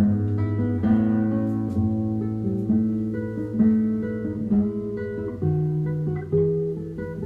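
Background music: acoustic guitar picking and strumming chords, with a new chord or note struck about every half second to a second.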